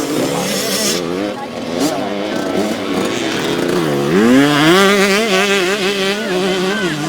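Several motocross bikes racing, their engines revving and changing pitch over one another. About four seconds in, one engine drops in pitch, then climbs back and holds steady.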